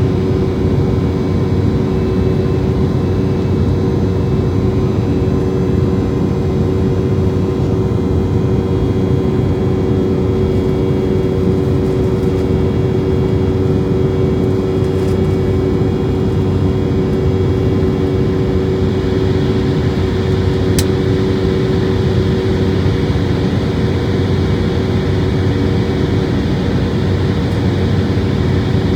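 Steady, loud jet-engine hum and airflow rush heard inside the cabin of an Embraer airliner in flight, with a constant low drone that does not change in pitch.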